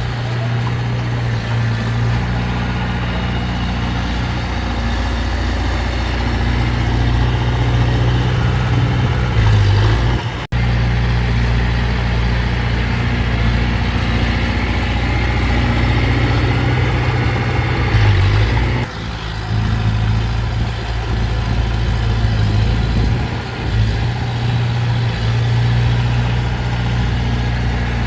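Heavy earthmoving machine's diesel engine running steadily, with a deep even drone. The sound cuts out for an instant about ten seconds in, then carries on.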